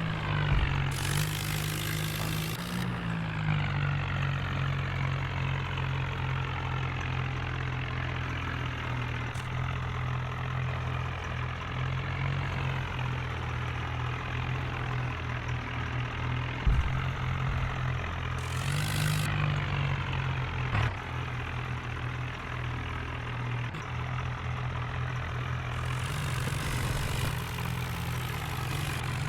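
Swaraj 963 FE tractor's diesel engine running steadily at low revs. Its speed picks up briefly three times, each time with a rush of hiss: about a second in, past the middle, and near the end.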